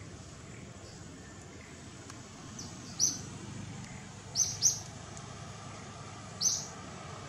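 Four short, high-pitched bird chirps, two of them in quick succession, over a steady hum of forest background noise.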